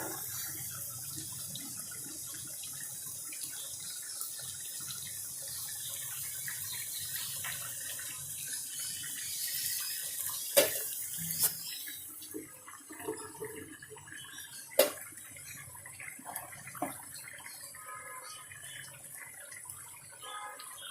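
Water running from a tap for about twelve seconds and then turned off, with two sharp knocks and some lighter clatter of kitchen items.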